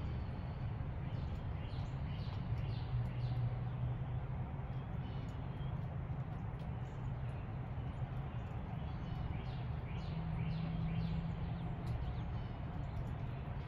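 Birds chirping: many short, downward-sliding chirps scattered throughout, over a steady low rumble.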